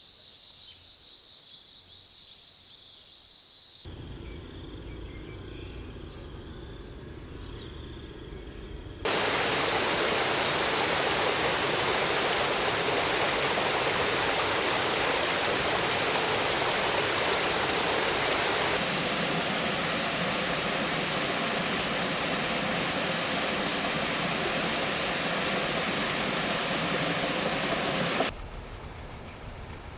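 A loud, steady rushing noise begins abruptly about nine seconds in and cuts off suddenly near the end. Before and after it, a steady high-pitched chorus of insects.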